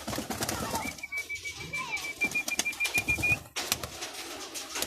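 Young racing pigeons moving about the loft trap: scattered wing flaps and sharp scuffing clicks. Through the middle, a high, rapidly pulsing trill holds one pitch for about two and a half seconds, then stops.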